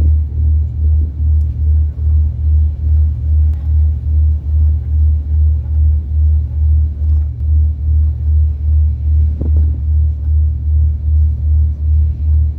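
Ferry's diesel engine and propeller throbbing heard on board, a deep steady rumble pulsing about two and a half times a second.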